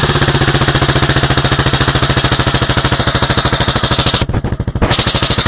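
Suzuki DR750 Big's single-cylinder four-stroke engine idling through an aftermarket Akrapovic exhaust, a fast, even beat of exhaust thumps after the revs settle. The level dips briefly about four seconds in.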